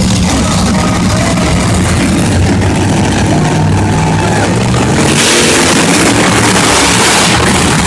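Monster truck engine running loud and revving, with a stretch of harsher, louder noise from about five seconds in that lasts a couple of seconds.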